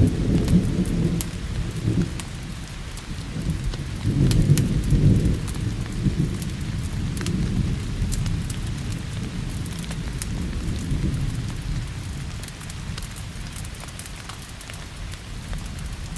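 Steady rain with rolling thunder that swells about four seconds in and fades away, and scattered sharp pops of a crackling wood fire.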